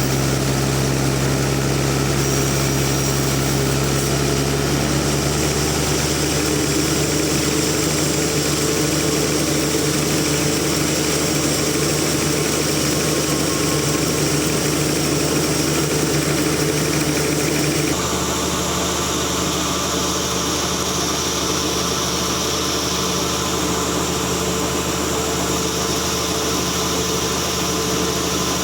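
Sawmill machinery running with a steady, engine-like drone. Its pitch shifts slightly about five seconds in, and its tone changes abruptly about eighteen seconds in.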